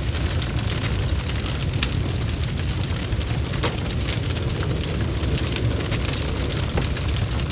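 Bonfire crackling: frequent sharp pops and snaps over a steady low roar of the flames.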